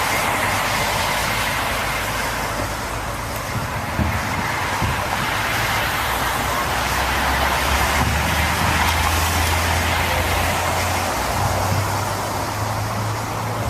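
City street traffic noise: a steady hiss of passing cars, with a brief knock about four seconds in and a low engine hum from a vehicle coming in about six seconds in.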